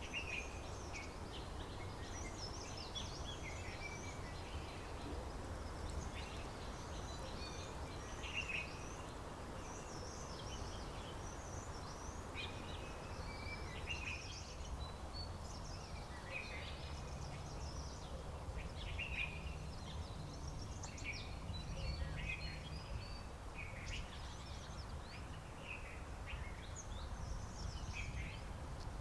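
Several songbirds chirping and calling, short quick phrases overlapping one another, over a steady low background rumble.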